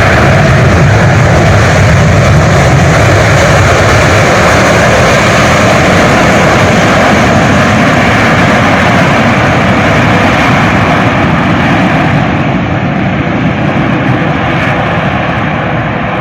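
Airliner engines running loud and steady close by, easing off slightly over the last few seconds.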